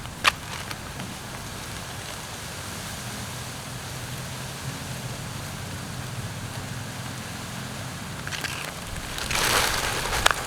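Garden mulch rustling as it is spread: a few sharp clicks at the start, then a louder rustling, pouring burst about a second long near the end, over a steady low hum.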